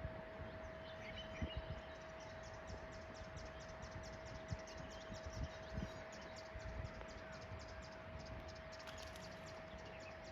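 Birds calling: a few chirps, then a rapid, dry ticking call repeating about six times a second for most of the stretch. Underneath are a steady hum and a low rumble.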